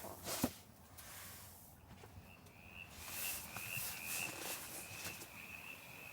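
A calling night animal's steady high-pitched trill starts about two seconds in and holds on, slightly wavering. A sharp knock and some rustling come near the start.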